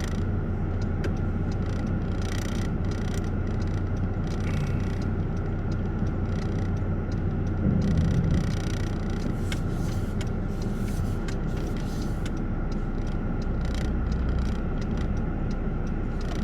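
Car driving, heard from inside the cabin: a steady low engine hum and road noise, with scattered faint clicks and knocks.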